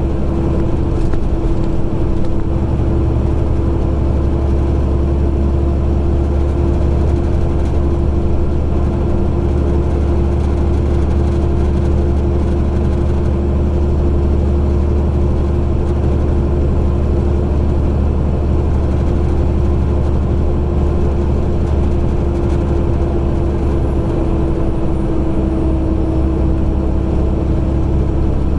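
Semi truck's diesel engine running steadily while driving, heard from inside the cab as a continuous low drone with a steady hum over it.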